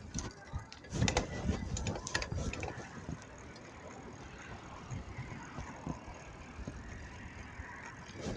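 Street noise on a bicycle ride: a few rattling knocks about one and two seconds in, then a steady rush of road and traffic noise.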